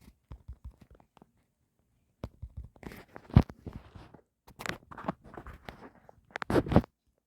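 Irregular short knocks, clicks and rustles with silent gaps between them, the sharpest knock about three and a half seconds in and a louder cluster near the end.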